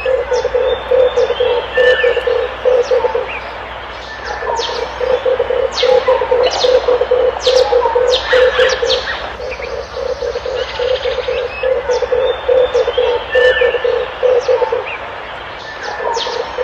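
Red turtle dove cooing: long runs of low, rapid coos at about three a second, broken by short pauses, over scattered high chirps of other small birds.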